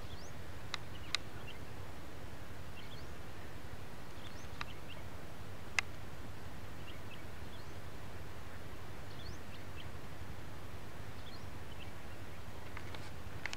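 Small birds chirping faintly now and then over a steady low rumble, with a few sharp clicks, the loudest about six seconds in.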